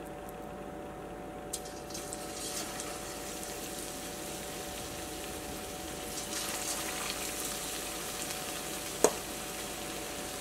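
Pieces of chicken coated in a cornflour and chilli batter being dropped one at a time into hot oil in a wok and frying, the sizzle starting about a second and a half in and growing louder as more pieces go in. A single sharp tap near the end.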